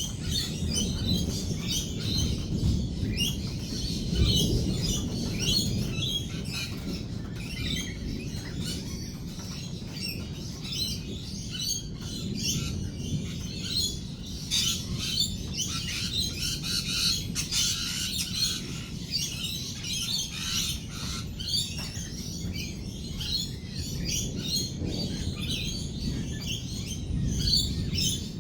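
A flock of lorikeets chattering and screeching in a dense run of short, high chirps. A low rumble runs underneath and swells twice.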